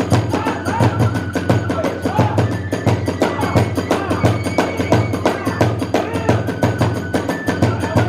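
Kagura hayashi accompaniment: drums beating a fast, steady rhythm under a bamboo flute playing held and sliding notes.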